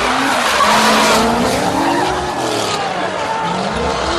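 Drift car sliding: tyres skidding and squealing over an engine revving up and down.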